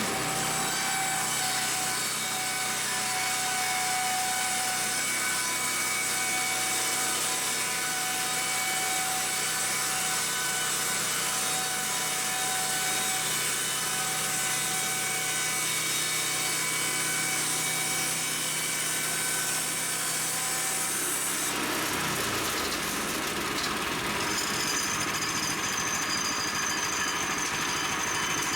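Woodland Mills HM122 bandsaw sawmill running and cutting through boards, a steady mechanical running sound with a high whine. About 22 seconds in the sound changes, with a low tone sliding down, and a couple of seconds later a different high whine takes over.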